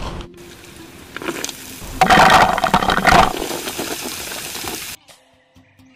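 Chopped heart of palm frying in hot oil in a wok: a steady sizzle that grows loud about two seconds in, then cuts off suddenly about a second before the end.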